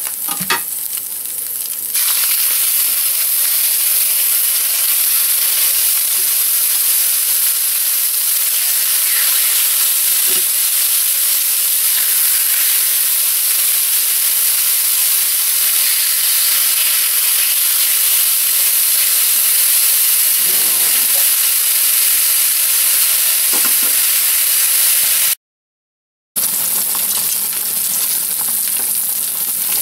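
Chicken breast cutlets frying in hot oil in a cast iron skillet: a steady sizzling hiss that grows louder about two seconds in. A few faint knocks from metal tongs handling the pieces, and the sound drops out for about a second near the end.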